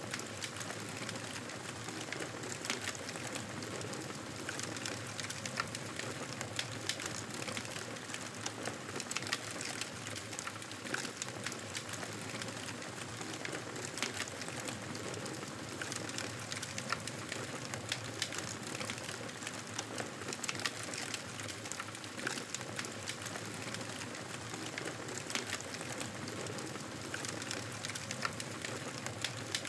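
Campfire burning with a steady hiss and frequent irregular crackles and small pops of burning wood.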